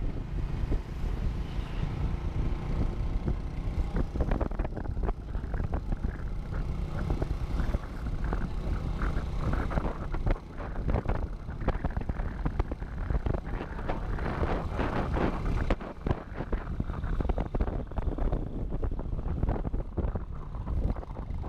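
Motorcycle riding along a road, heard from on board: a steady low engine and road rumble under wind buffeting the microphone, with frequent small knocks and rattles.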